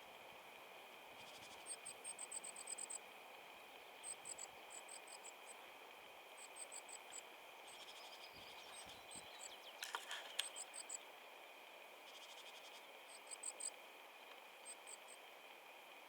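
A small songbird calling in quick series of short, very high-pitched notes, several runs of five to ten notes each, over a faint steady high whine. About ten seconds in there is a brief burst of sharp scratchy clicks.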